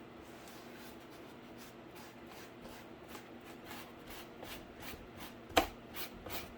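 Paintbrush strokes on cardboard: a run of short scratchy brushing strokes that come faster and louder toward the end, with one sharp knock about five and a half seconds in. A faint steady hum runs underneath.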